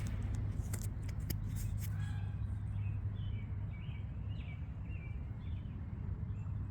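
Birds calling outdoors, several short chirps over the last few seconds, with a few sharp scratchy clicks in the first two seconds and a steady low rumble underneath.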